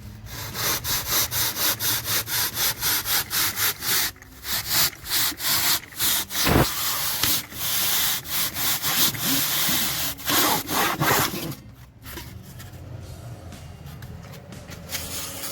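Rapid back-and-forth rasping strokes of hand sanding, filing or sawing, about three a second, with short breaks and stopping abruptly about eleven and a half seconds in.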